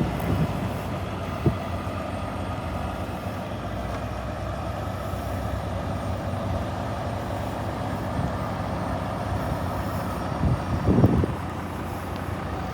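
Diesel engine of a 2020 Volvo VNL 860 truck tractor idling steadily. There is a sharp click about a second and a half in, and a short louder rush of noise near the end.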